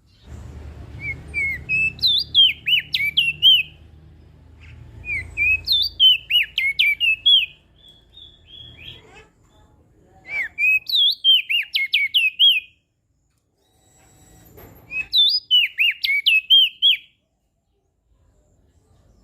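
Crested white-eye (opior jambul) singing: four repeated phrases of quick, sharp whistled notes, each about two seconds long, a few seconds apart. A low hum runs under the first two phrases.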